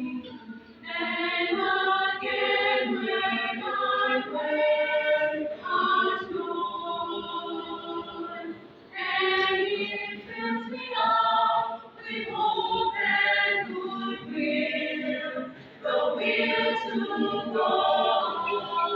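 A choir singing, phrase after phrase with short breaks between them.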